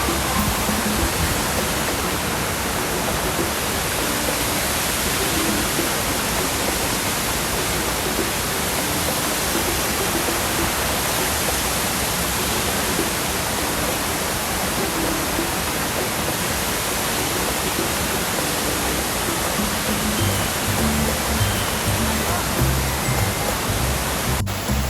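Steady rushing and splashing of a waterfall, a dense even roar of falling water.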